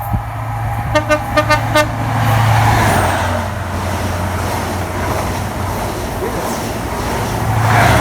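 Train horn giving five short toots in quick succession about a second in, over a train's diesel engine running with a steady low hum. The engine and rushing noise grow louder around two seconds in and again near the end.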